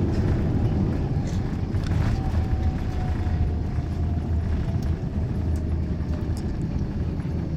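Steady low rumble of an Airbus A350-900's engines and airflow heard inside the cabin, with a faint whine that comes in about two seconds in and slowly falls in pitch.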